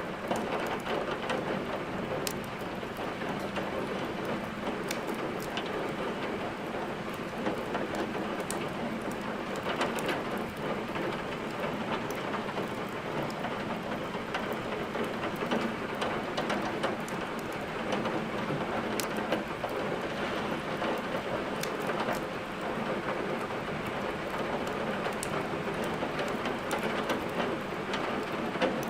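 Steady rain with the crackle of a wood fire mixed in: an even patter of rain, broken by scattered sharp pops and snaps from burning logs.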